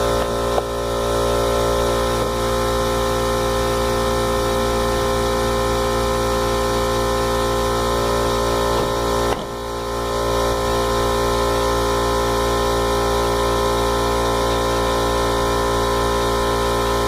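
Air compressor running steadily, building air pressure to charge the airbag system. Its steady hum dips briefly about nine seconds in.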